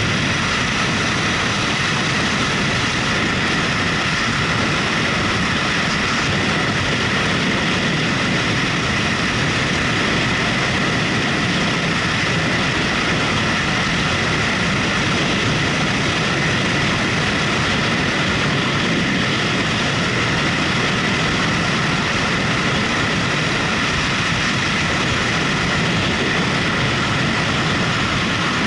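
A motorcycle riding at a steady speed: an even rush of wind and road noise with the engine running underneath, holding constant with no revving or gear changes.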